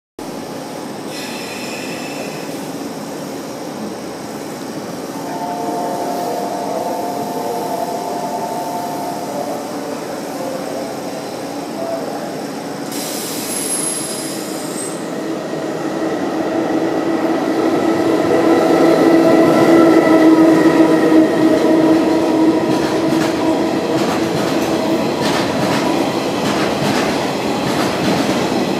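Freight train hauling an Akita Shinkansen E6 series set approaches and passes on rails: a steady running hum swells to its loudest about twenty seconds in, then a quickening series of wheel clicks over rail joints as the shinkansen cars roll by.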